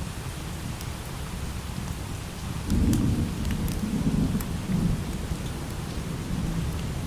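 Steady light rain, with a low roll of thunder breaking in about a third of the way through. The thunder swells three times, then dies back into the rain.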